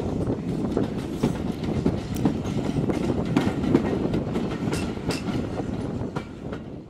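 Passenger train coach running along the track, heard from its open window: a steady rumble of wheels on rails with frequent irregular clicks and clatter.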